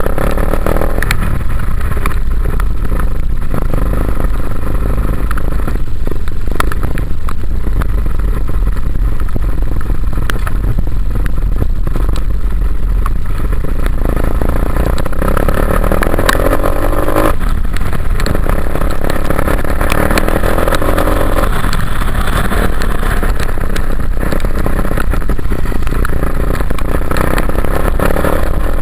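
Dirt bike engine running under way, its pitch rising and falling with the throttle, over a heavy low rumble and scattered knocks.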